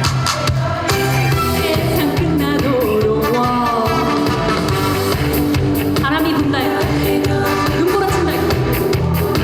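Trot song: a woman singing with vibrato over a band accompaniment with a steady beat.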